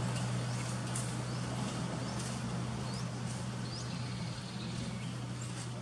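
Outdoor ambience among trees: a steady low hum under a constant hiss, with short high rising bird chirps every second or so.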